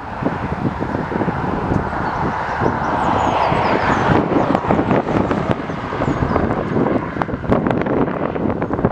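Wind buffeting the microphone, with the broad rush of a jet aircraft swelling about three seconds in and easing off again. A few faint high chirps sound over it.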